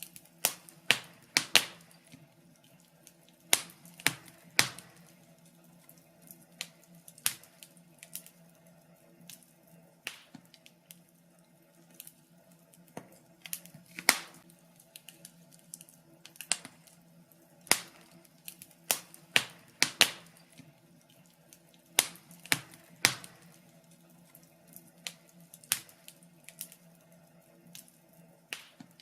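Wood fire crackling: irregular sharp snaps and pops, some much louder than others, over a faint steady hum.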